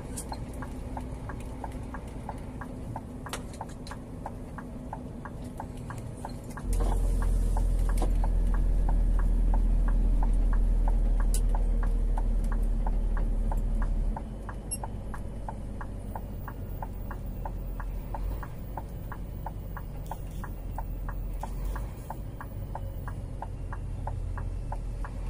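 Scania G 410 truck's diesel engine running low and steady, much louder for about seven seconds from about seven seconds in, with a quick, even ticking throughout.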